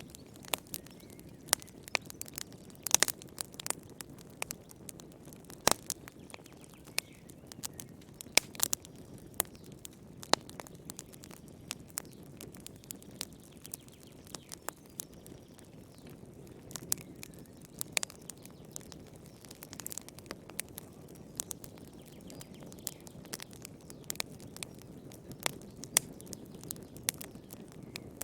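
Wood fire burning in a fireplace, crackling and popping irregularly over a soft low rush of flame, with a few sharper, louder pops.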